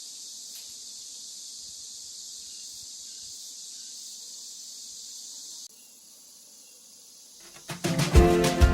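Steady, high-pitched chorus of summer insects in a forest. It drops away abruptly about five and a half seconds in to a quieter background, and music with a strong beat starts near the end.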